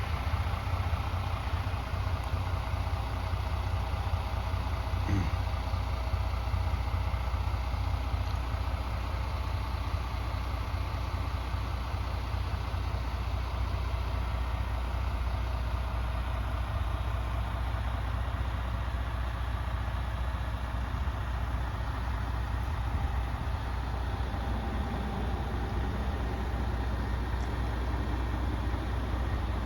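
Diesel engine of a MAN TGS 28.430 tipper truck running steadily at an idle-like pace, a deep even drone.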